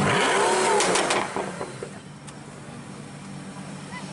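Pagani Huayra's twin-turbo Mercedes-AMG V12 blipped once from idle, the pitch rising and falling back within about a second, with a few sharp exhaust crackles as the revs drop. It then settles to a quieter idle with one more pop.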